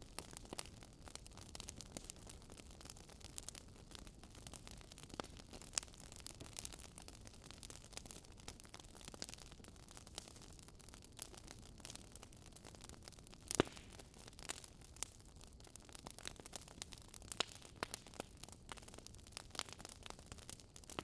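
Wood fire crackling: irregular sharp pops and snaps over a soft steady hiss, one pop standing out more than halfway through.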